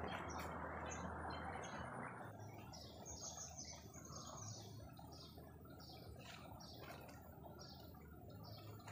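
A bird calling a long series of short high chirps, two to three a second, beginning about two and a half seconds in. A soft rushing noise comes before it and fades after about two seconds.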